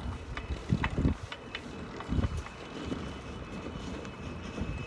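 Bicycle being ridden: wind rumbling on the microphone over tyre and frame noise, with several light clicks and rattles.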